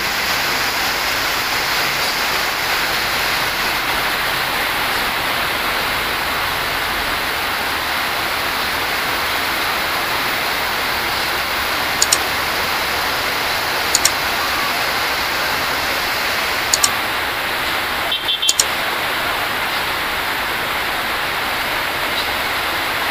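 Heavy rain falling in a steady hiss on a wet road. From about halfway in, four short double mouse-click sound effects of an on-screen like-and-subscribe animation cut in over it.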